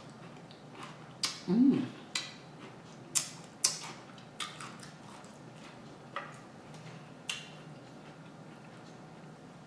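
A person chewing and eating a sandwich: irregular sharp, wet mouth clicks and smacks, with a brief low hum about a second and a half in.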